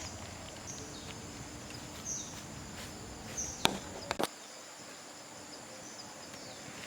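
Insects chirping steadily outdoors, with a short high call repeating about once a second. A few sharp clicks or knocks come a little before the middle.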